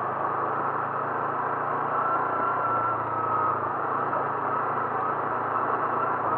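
A vehicle travelling steadily, its engine and road noise running evenly with a faint whine and a low hum and no sudden changes.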